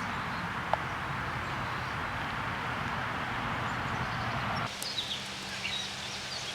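A steady rushing noise with a low hum, which cuts off abruptly about two-thirds of the way through. After the cut, birds call in short, high chirps.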